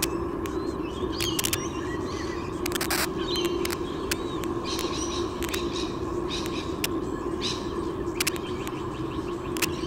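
Scattered short bird chirps, some rising and falling in pitch, with sharp clicks, over a steady low hum.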